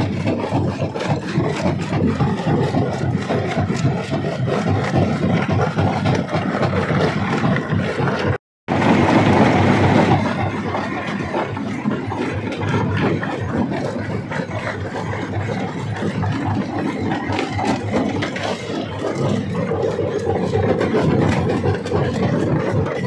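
Large stone crusher running and breaking rock: a continuous heavy mechanical rumble with a dense clatter of crushing stone. The sound cuts out completely for a moment about eight seconds in and comes back louder.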